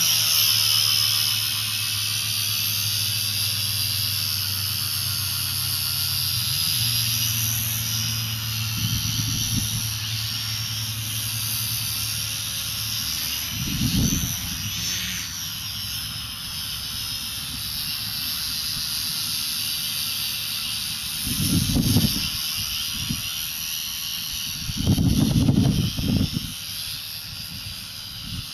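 Hybrid ESKY Lama V3 / Walkera DF52 RC helicopter, its 150 W brushless motor and coaxial rotors running with a high-pitched whine that wavers in pitch with the throttle. Short low buffeting gusts, likely rotor downwash on the microphone, come through about halfway through and again near the end.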